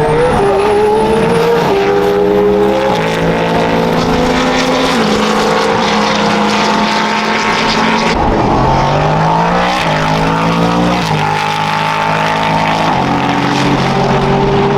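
Several racing car engines running hard at once, their pitch stepping up and down with gear changes and sweeping in long glides, with no pause in the sound.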